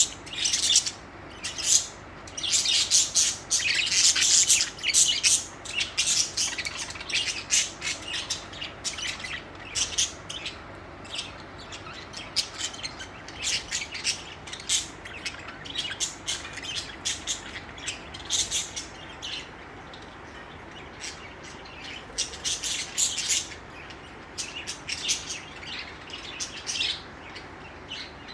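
Budgerigars chirping and warbling in rapid runs of short, high chirps. The chirping is busiest in the first half and thins out later.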